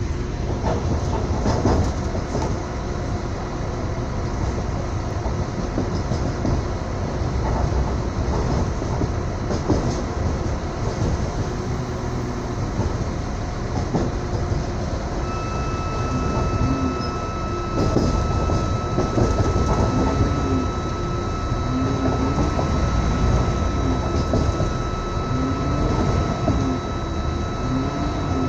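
Inside a moving train carriage: the steady rumble of wheels on rails, with scattered clicks from the rail joints. About halfway through a steady high-pitched whine sets in and holds.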